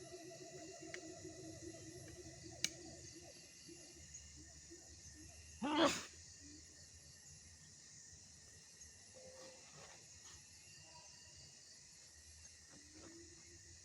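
Steady night-forest insect chirring, with a sharp click a little over two seconds in and one short, loud sweeping sound about six seconds in.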